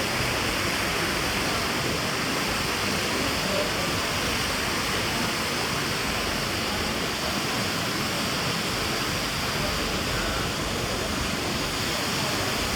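Steady, even rushing noise that holds at one level throughout, without the rise and fall of breaking waves.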